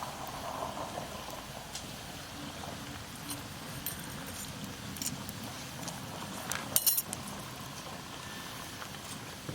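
A few light clinks, with a sharper pair about seven seconds in, over a steady low hiss.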